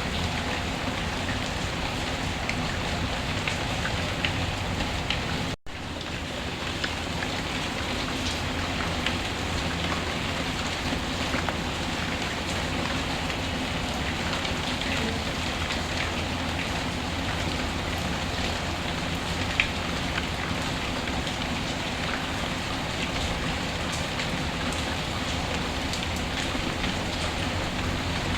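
Steady heavy rain falling on a surface, with faint scattered crackles from a wood fire in a fireplace. The sound cuts out for an instant about five and a half seconds in, then resumes.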